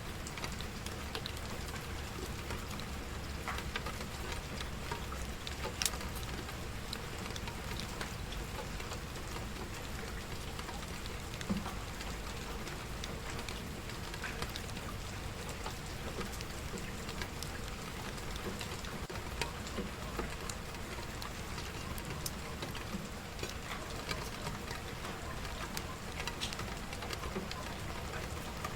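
Steady rain falling, with scattered sharp crackles and pops of a wood fire burning; the loudest pop comes about six seconds in.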